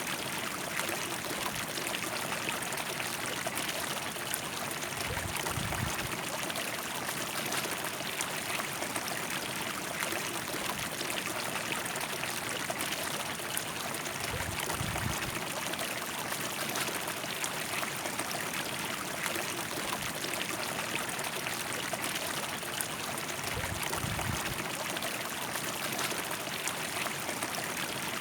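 River water flowing over rocks with a steady rushing and trickling, and three brief low rumbles spaced about nine seconds apart.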